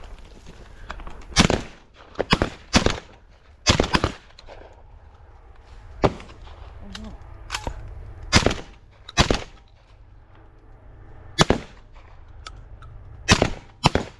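Shotguns firing a volley of about ten shots at flushing pigeons, irregularly spaced, some in quick pairs, as birds break out of a grain bin.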